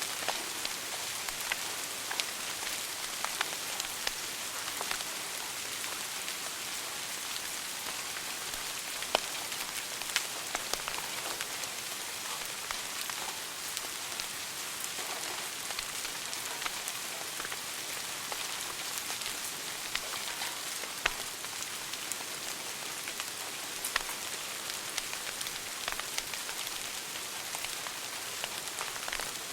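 Wood fire burning in a fireplace: a steady hiss with frequent crackles, and a few louder sharp pops scattered through.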